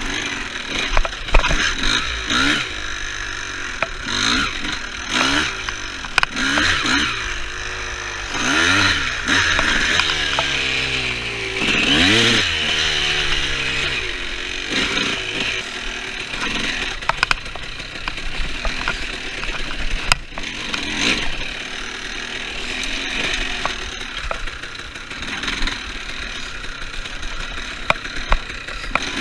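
Two-stroke dirt bike engine revving up and down every couple of seconds as it is ridden. About halfway through it settles into steadier, lower running, with scattered clatter.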